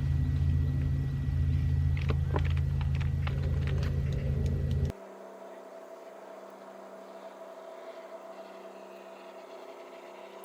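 A loud steady low rumble that cuts off abruptly about five seconds in, leaving a much quieter steady hum.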